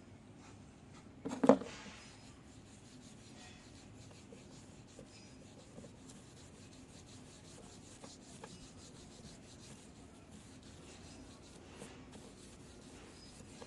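Faint, continuous rubbing and scraping, with a single sharp knock about a second and a half in.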